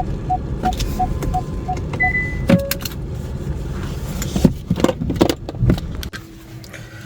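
Kia EV6 cabin with a rapid beeping chime, about three beeps a second, stopping about two seconds in, followed by a couple of short electronic tones. Then several clicks and knocks of controls and handling inside the car. The steady hum of the running car's cabin cuts off about six seconds in as the car is switched off.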